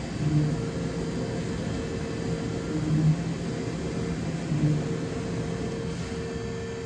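Doosan DVF 5000 five-axis CNC mill machining: a steady whir with two held tones, swelling louder three times.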